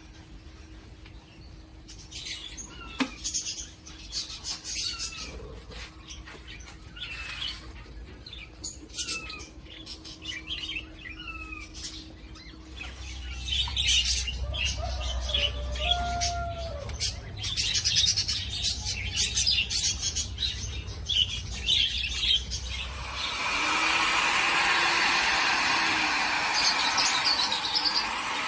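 Budgerigars chirping in short, rising and falling calls, repeated every second or so. A low rumble joins in about halfway through, and a louder, dense noise takes over for the last few seconds.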